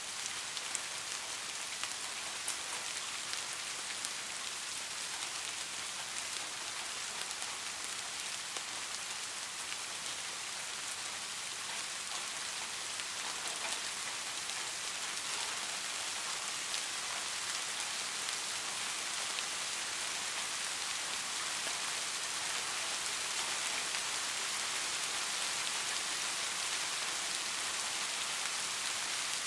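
Steady rainfall: a dense, even hiss of falling drops with faint scattered ticks, unchanging throughout.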